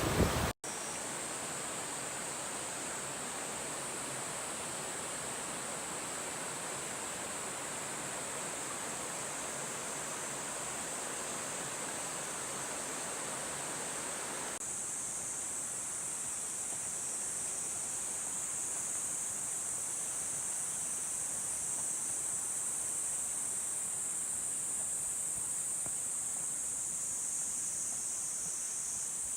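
Mountain stream water rushing steadily over rocks, with a steady high insect drone above it that grows louder about halfway through.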